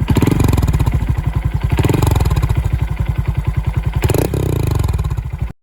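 Honda Monkey 125's single-cylinder four-stroke engine running with a steady pulsing exhaust note, revved up briefly three times, about two seconds apart; the sound cuts off suddenly near the end.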